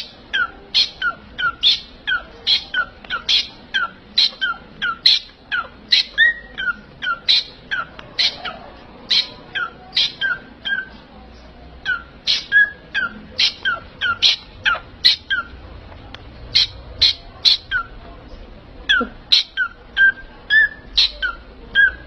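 A pet parrot giving a long run of short, sharp repeated calls, about two to three a second, with a brief lull partway through.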